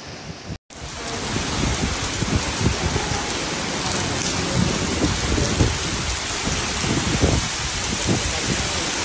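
Heavy rain pouring onto a flooded street: a dense, steady hiss with irregular low rumbles underneath. A brief dropout about half a second in breaks it off from quieter rain before.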